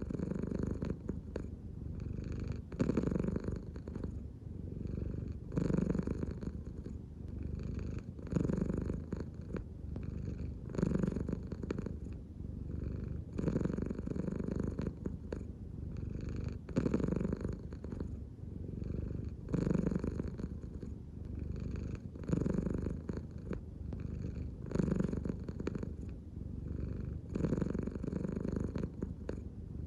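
American Shorthair cat purring steadily, the purr swelling and easing in a slow rhythm, about once every two and a half to three seconds, with each breath.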